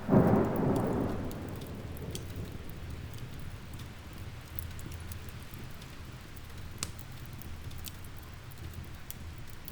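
Steady rain with occasional sharp fire crackles. A louder low rumble near the start fades away within about a second and a half.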